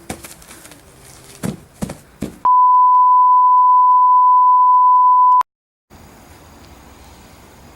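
A few knocks, then a single steady high-pitched test-tone beep held for about three seconds that cuts off suddenly into dead silence: the broadcast tone that marks technical difficulties.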